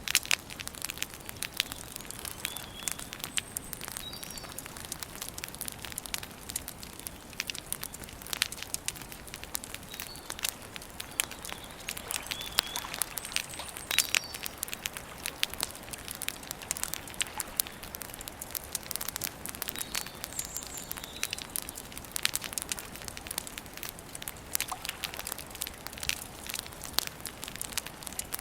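Campfire burning with dense, irregular crackling and popping, and faint short bird chirps here and there.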